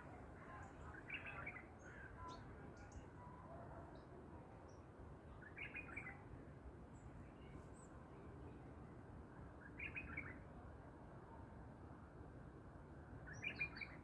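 A bird calling a short burst of notes about every four seconds, four times in all, over a faint steady hiss.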